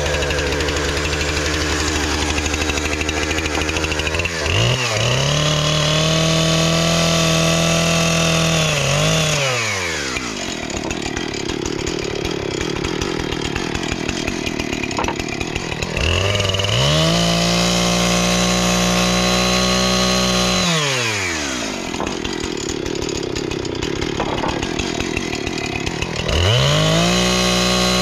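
Chainsaw idling, then revved up and held at full speed for about five seconds while cutting a piece of 1x4 board, then dropped back to idle; this happens twice, with a third rev-up starting near the end.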